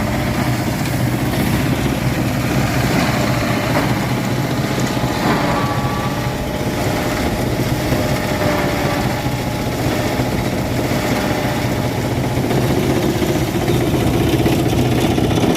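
A motor running steadily at a constant speed, with a low hum.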